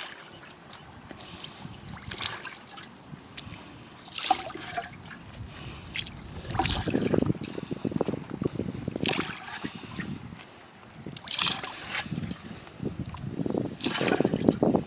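Water sloshing and splashing in irregular bursts, sharpest about four seconds in and again near the end.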